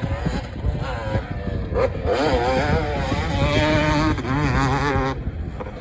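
Small two-stroke kids' motocross bike engine revving, its pitch wavering with the throttle, then dropping away about five seconds in.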